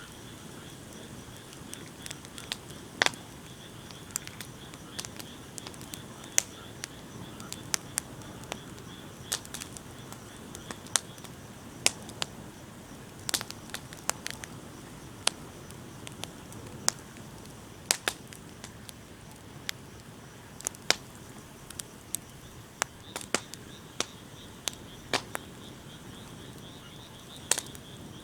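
Wood bonfire crackling: irregular sharp pops and snaps, roughly one a second with some much louder than others, over a steady low hiss of burning.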